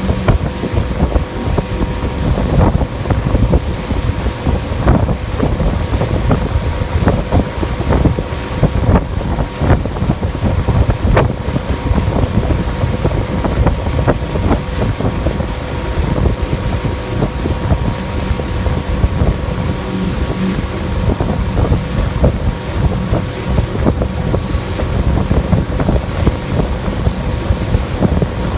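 Pontoon boat's motor running steadily at speed, a constant hum under heavy wind buffeting on the microphone, with scattered knocks from the hull on the water.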